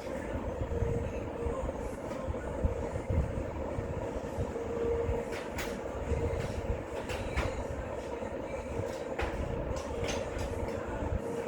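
Steady low rumble with a constant hum, with several short, sharp clicks and clinks of tools on metal in the second half.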